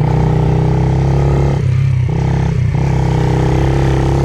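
Pit bike engine running steadily at a constant pitch. Its sound thins out briefly twice near the middle, then comes back.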